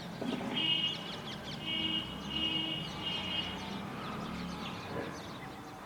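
Small birds chirping and twittering, with four held high-pitched notes in a row in the first part.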